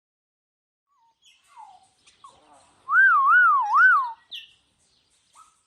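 A bird calling: a few faint short chirps, then a loud clear whistle that warbles up and down three times over about a second, then more faint chirps.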